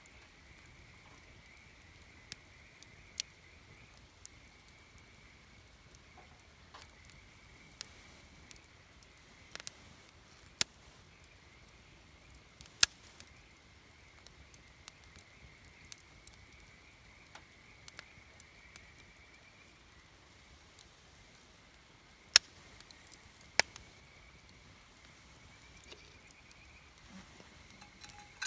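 Wood campfire crackling: irregular sharp pops and snaps, a few of them much louder than the rest. A faint steady high-pitched sound runs underneath.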